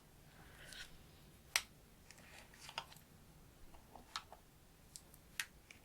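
Scattered light clicks and taps with a few short, soft swishes as makeup brushes and an eyeshadow palette are handled, while one brush is swapped for a blending brush.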